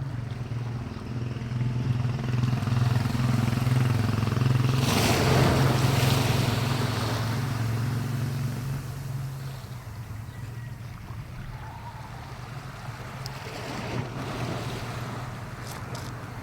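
A low engine hum builds, peaks with a rushing whoosh about five seconds in, then fades away, as an engine-driven vehicle passes close by.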